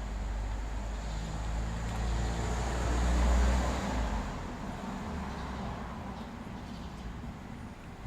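A road vehicle passing by: a low rumble with tyre and road noise that grows louder to a peak about three seconds in, then fades away.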